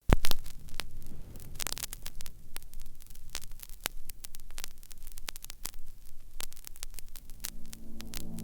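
Vinyl LP surface noise in the lead-in groove: dense crackle and pops over a low hum. Near the end a low held musical chord fades in.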